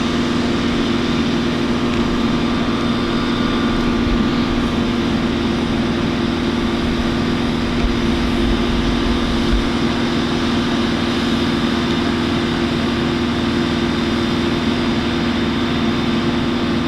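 Steady engine drone with a constant low hum, holding level throughout.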